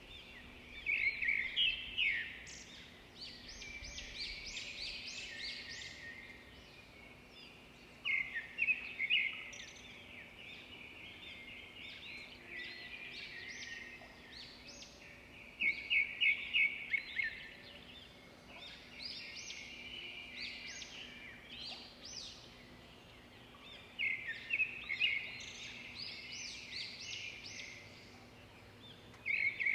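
Birds singing in the open: phrases of rapid, high chirping notes that swell loudest about every seven or eight seconds, with softer chirping in between, over a faint steady hum.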